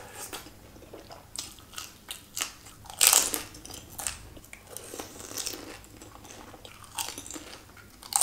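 Close-miked eating: a person chewing and biting crunchy food, a string of irregular crunches and mouth smacks, loudest about three seconds in.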